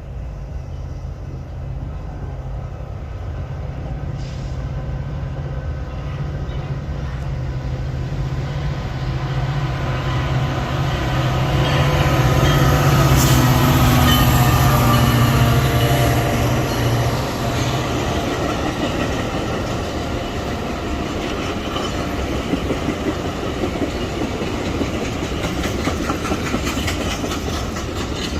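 Metra commuter train passing close by. A low diesel drone builds to its loudest about halfway through and then drops away, and the rail cars keep rolling past with a steady rumble and quick wheel clicks over the rail joints near the end.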